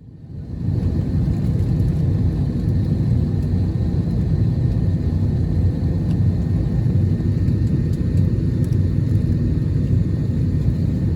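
Steady low rumble inside the cabin of an Airbus A321neo being pushed back with its engines not yet started. It fades in over the first second, with a few faint ticks above it.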